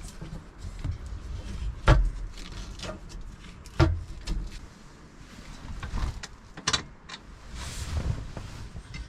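Wind buffeting the microphone in low rumbling gusts, with several sharp knocks and clicks, the loudest about two and four seconds in.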